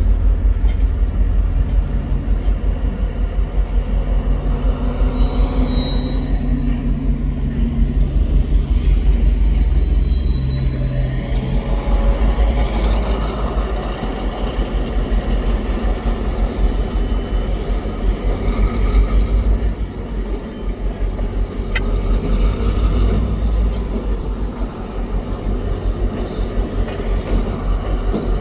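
Diesel freight locomotives working close by, engines running with a steady low drone as the train moves cars. The drone is strongest for the first dozen seconds, then eases, and there is a brief squeak a little past the middle.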